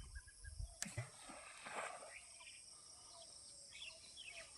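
Faint outdoor ambience with a steady high hiss and a single click about a second in. Near the end, small birds begin a run of short, quick chirps.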